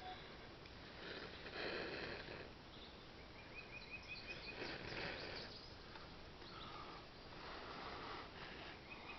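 Three breathy bursts of air about three seconds apart: a person blowing on a smouldering bow-drill ember to coax it into flame. A bird's quick run of high chirps sounds between the first two.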